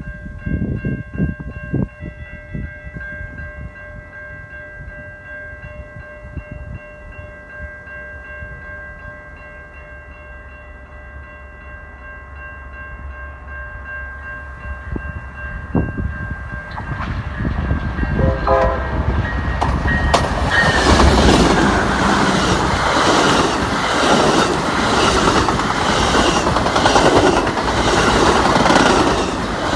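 Amtrak passenger train at track speed, led by a GE Genesis P42DC diesel with a Siemens ALC42 Charger behind. Grade-crossing warning bells ring steadily, then about two-thirds of the way in the train arrives with a rising roar, a short horn toot and a fast, regular clatter of wheels over the rail joints.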